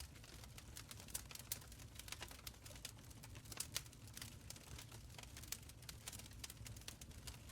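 Wood fire crackling in a stone fireplace: quick irregular pops and snaps over a low steady rumble of the flames.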